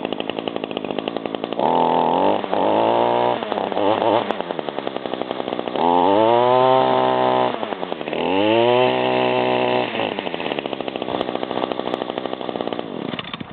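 Small two-stroke engine of a handheld yard tool idling and revved up three times, the pitch climbing, holding and falling back each time, then shutting off near the end.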